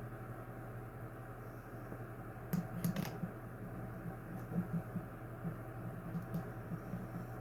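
A few sharp clicks about two and a half seconds in, then scattered light taps, over a steady low hum.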